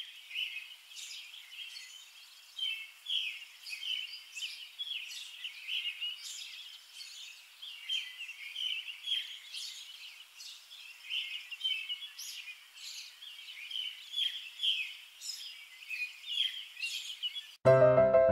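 Small birds chirping in quick, overlapping short calls. Piano music starts abruptly near the end.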